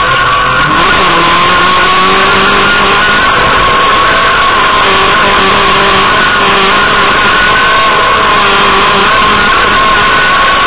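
Renault Clio Williams rally car's 2.0-litre four-cylinder engine pulling hard at high revs, heard from inside the cabin. Its pitch climbs about a second in, then holds fairly steady over heavy road and cabin noise.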